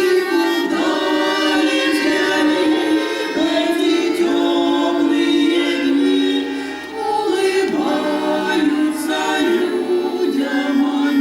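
Choir singing a song to accordion accompaniment, with a short break between phrases about two thirds of the way through.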